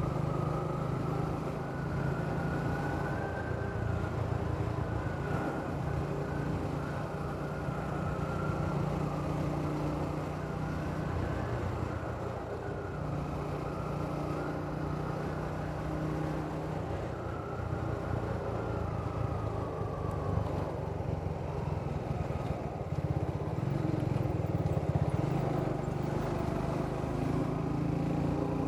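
Triumph Speed 400's single-cylinder engine and exhaust running on the move, the engine note rising and falling gently with the throttle and growing a little louder near the end.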